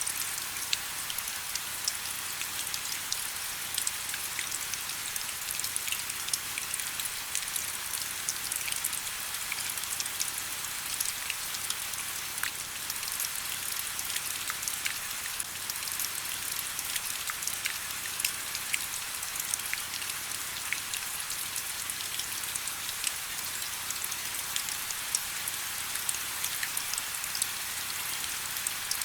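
Steady rain falling: an even hiss thick with tiny drop clicks, with little low rumble.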